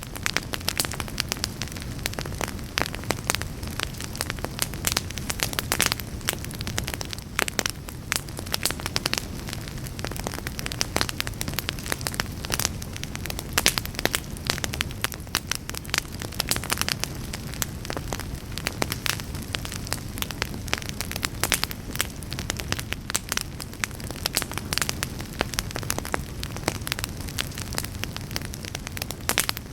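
Fire burning in a fireplace, crackling and popping irregularly and densely over a steady low rumble.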